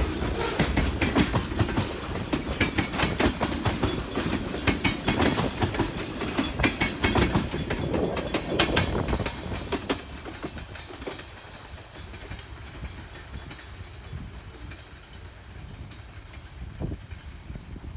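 Wheeling and Lake Erie freight train cars rolling past, their wheels clacking over the rail joints. The sound drops away about ten seconds in as the train moves off, leaving a fainter rumble.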